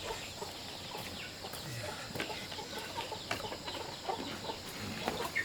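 Chickens clucking: scattered short calls among faint clicks and rustling.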